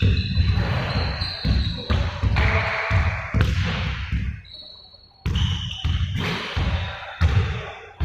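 Basketballs bouncing hard on a gym floor in repeated quick thuds, with short high squeaks over them and a brief lull about two-thirds of the way through.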